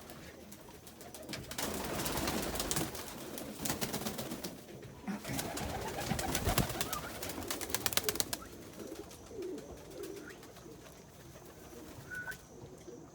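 Domestic pigeons cooing in a loft, with a busy stretch of rapid clicking and scuffling in the middle.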